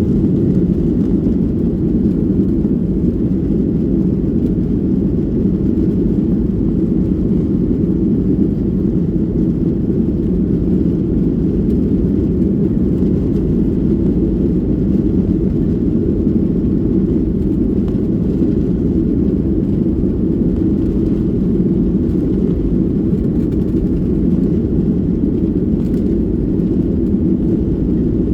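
Steady low rumble of a jet airliner's engines and airflow heard from inside the passenger cabin, unchanging in level.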